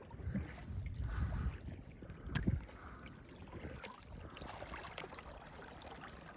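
Kayak paddle strokes dipping and swishing through lake water, with a single sharp knock about two and a half seconds in.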